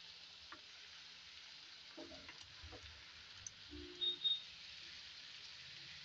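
Onions and sliced bitter gourd sizzling gently in hot mustard oil in a kadhai, with a wooden spatula scraping the slices in from a steel bowl. Two short clinks about four seconds in are the loudest sounds.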